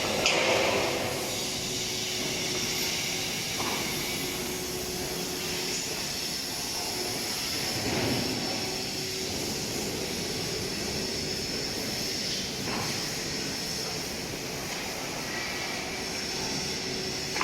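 Steady workshop machinery noise: a continuous hiss and hum, with a few faint knocks.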